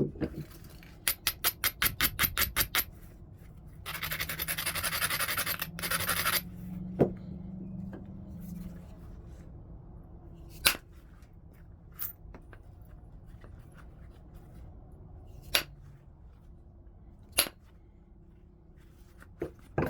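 Stone being flintknapped: a quick run of scraping strokes along the edge, then about two seconds of steady grinding as the edge is rubbed on an abrader. After that come single sharp ticks a few seconds apart as flakes come off the stone.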